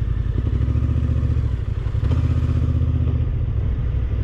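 Motorcycle engine idling steadily, a low pulsing rumble.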